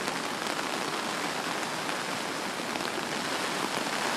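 Steady hiss of heavy rain falling during a hurricane, with faint scattered drop ticks.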